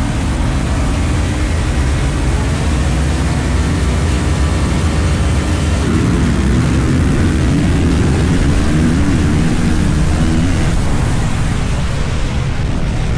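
Dirt bike engine running while riding, its pitch rising and falling a few times from about six seconds in, over a steady rushing noise.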